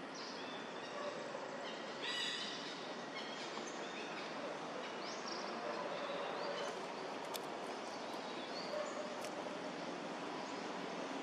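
Outdoor background noise with birds chirping now and then: short high calls about two seconds in and again around the middle.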